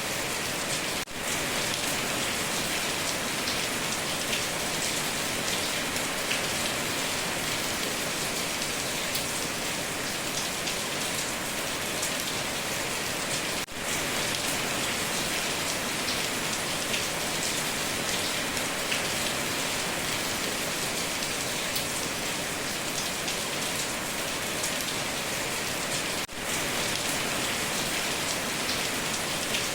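Heavy, steady rain drumming on a tin roof. The level dips for an instant three times, about every twelve and a half seconds.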